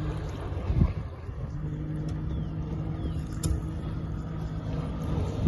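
Tohatsu 30 hp four-stroke outboard (MFS30C) with an aftermarket MSP flap exhaust running steadily, its level dipping briefly about a second in and then holding. A couple of short thumps stand out over it.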